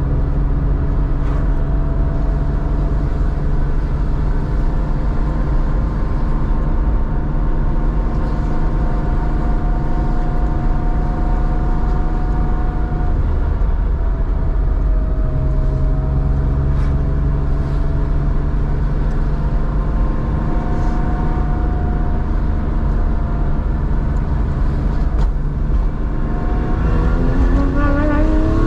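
Air-cooled flat-six of a 1987 Porsche 911, enlarged to 3.4 litres and breathing through a two-in, one-out muffler, running at a steady, even engine speed while driving. Near the end the revs climb quickly as it accelerates.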